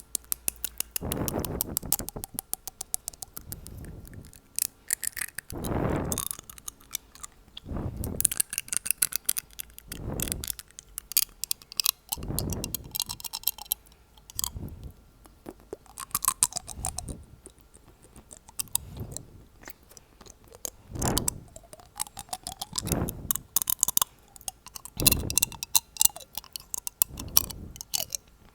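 ASMR teeth tapping: fast runs of small sharp clicks, mixed with short breathy wind-like whooshes on the microphone about every two seconds.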